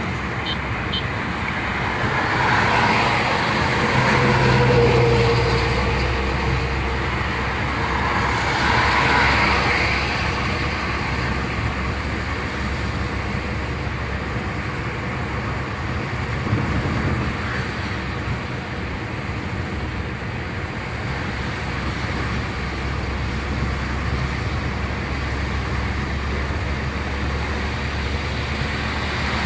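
Car driving on a road: steady engine and tyre noise, swelling louder twice in the first ten seconds.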